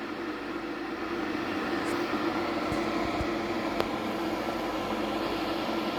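Electric kettle heating water: a steady rushing hiss with a low hum, building slightly in loudness as it works towards the boil, with one small click about four seconds in.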